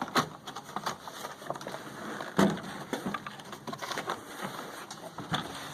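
Irregular clicks and knocks of plastic casing parts and small hardware being handled during the disassembly of a portable inverter generator, with the loudest knock about two and a half seconds in.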